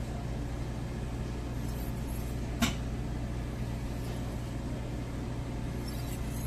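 Steady low hum with one sharp click about two and a half seconds in.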